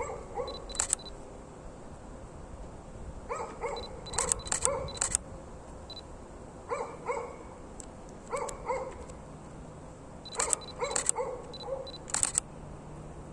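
Camera taking stills: short electronic focus-confirmation beeps followed by shutter clicks, in about five bursts, single and double. A dog barks or yips in the background several times between the shots.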